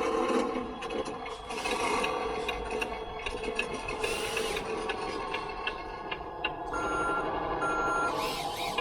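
Truck engine running steadily, with two short reversing beeps about seven seconds in.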